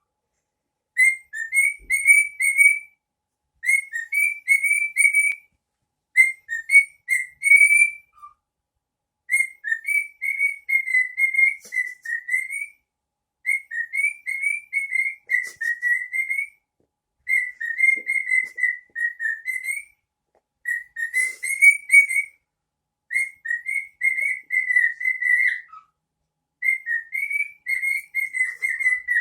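Cockatiel whistling a short warbling tune over and over: about nine phrases of quick up-and-down notes, separated by brief pauses.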